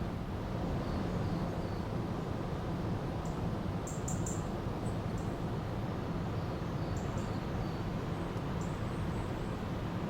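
A river's water rushing steadily, with small birds giving short, high chirps now and then over it, a cluster of them a few seconds in.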